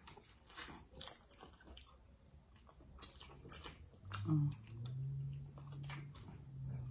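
Close-up eating sounds of people chewing fried catfish: small wet clicks and lip smacks. A low steady hum comes in about four seconds in and holds.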